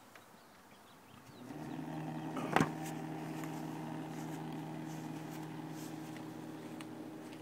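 Electric sump pump in a rain barrel switched on about a second and a half in and running with a steady hum, pumping the stored rainwater out to water the yard. A single sharp knock sounds about a second after it starts.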